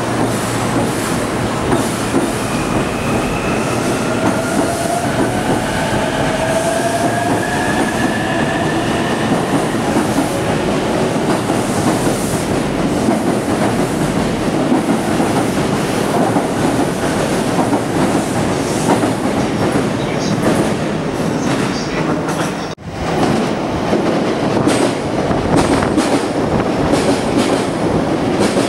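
JR electric commuter train moving along the platform: a steady clatter of wheels on the rails, with a motor whine rising in pitch over the first ten seconds as it picks up speed. After an abrupt cut about three-quarters of the way through, a second electric train runs alongside the platform.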